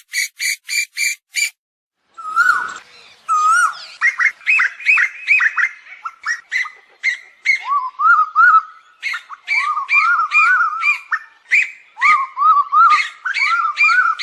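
Asian koels calling: a fast run of short, evenly spaced whistled notes, a brief pause, then a busy string of short rising-and-falling calls that overlap at two pitches, as from more than one bird.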